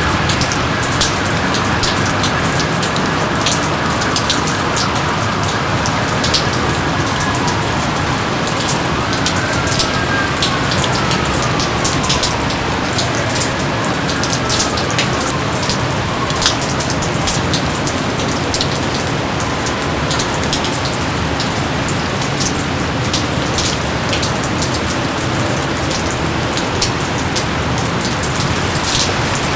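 Steady heavy rain, a dense even hiss with many sharp individual drops striking close by. A few faint falling whistles pass through near the middle.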